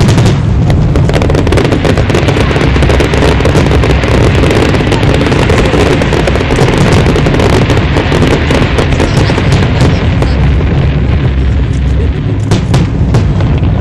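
Dense barrage of aerial firework shells bursting: many overlapping booms over a continuous low rumble, with sharp pops and crackle.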